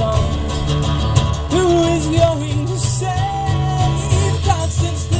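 Live rock band music: steady bass and drums under a gliding melody line, with a cymbal crash about three seconds in.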